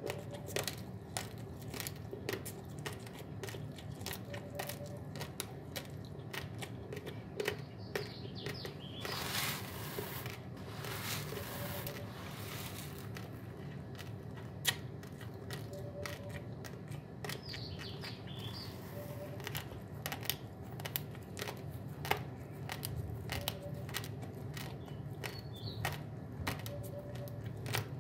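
Raw basmati rice grains crunched between the teeth: a steady run of sharp, irregular cracks, with a stretch of rustling near the middle.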